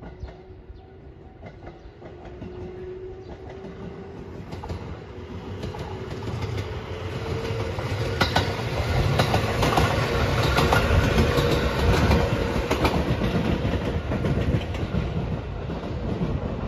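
JR 213-series electric train passing on the rails. It builds up to its loudest about eight to thirteen seconds in, with wheels clacking over the rail joints and a thin whine that slowly rises in pitch.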